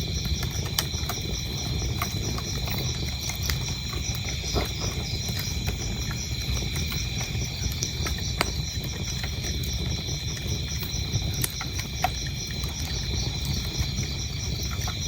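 Wood fire crackling with irregular sharp pops over a low steady rumble, while crickets chirp in a continuous, evenly pulsing high trill.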